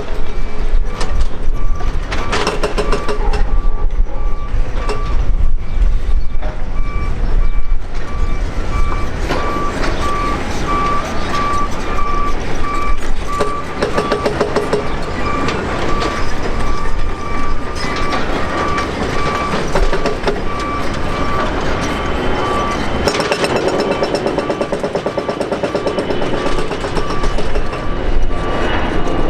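Ilyushin Il-76 jet engines running loud and steady, a deep rumble under a sustained high whine.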